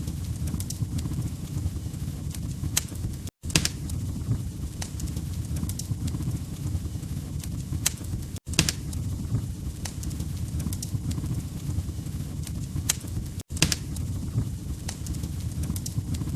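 Log fire in a fireplace crackling: a steady low rumble of burning with sharp pops and snaps scattered through it. The sound cuts out to silence for a moment three times, about five seconds apart.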